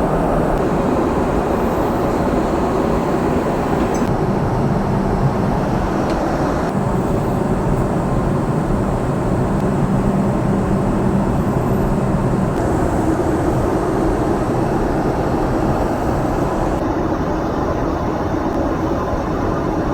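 Jet airliner cabin noise heard from inside the cabin: a loud, steady rush of engines and airflow, with a faint low hum through the middle.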